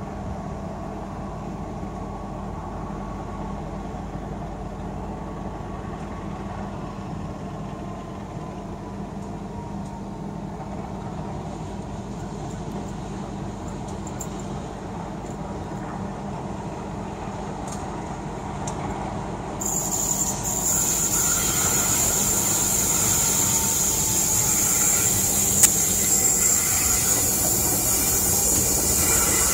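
Steady rumble and hum beside a standing passenger train, with a faint, slowly falling tone. About twenty seconds in, a louder hiss cuts in suddenly and stays as the oncoming diesel-hauled train draws near.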